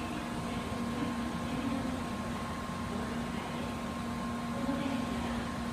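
Steady hum from an N700A-series Shinkansen standing at the platform: its onboard equipment runs with a constant low tone and a fainter higher tone.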